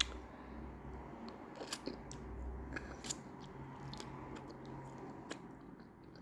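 A person chewing food close to the microphone: scattered sharp, crisp clicks and crunches at an irregular pace over a faint low hum.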